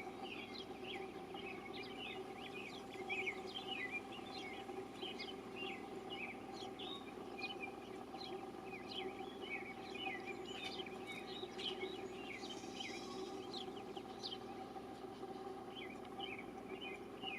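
Small birds chirping over and over in a dense, continuous chatter of short notes, over a steady low background hum.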